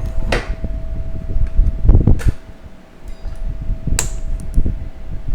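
Metal parts of a 4L60E automatic transmission being handled as a clutch piston return spring is taken out: a few sharp metallic clicks and knocks, the sharpest about four seconds in, with rustling handling noise. A steady hum runs underneath.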